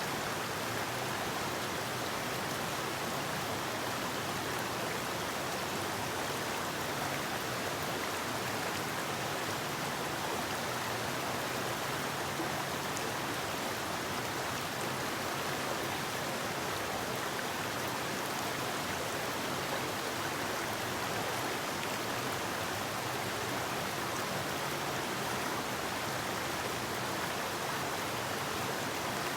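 A river flowing over rocks, a steady even rush of water with no breaks or changes.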